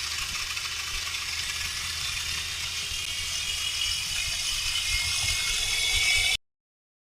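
Small battery motor and gears of a toy remote-control car whirring as it runs along a plastic track, with a steady rattle. The sound grows slightly louder and cuts off suddenly near the end.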